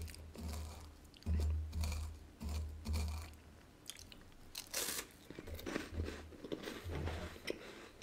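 A person chewing and crunching a crisp wafer with a condensed-milk cream filling close to the microphone, with soft rhythmic jaw thumps about twice a second and a sharper crunch about five seconds in.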